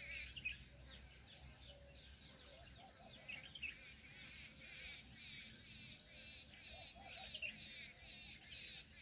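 Many small birds chirping together, faint, with a dense run of quick high chirps from about four seconds in.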